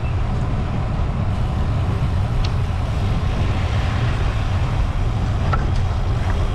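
Steady wind rush on the microphone of a camera riding along on a moving bicycle, with road and tyre noise underneath, and a faint click or two near the end.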